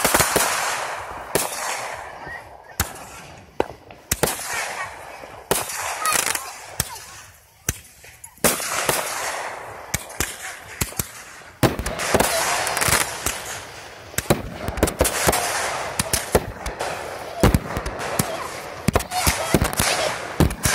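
Aerial fireworks going off: repeated sharp bangs and crackling of bursting shells, easing to a lull near the middle, then a dense run of bangs and crackles through the second half.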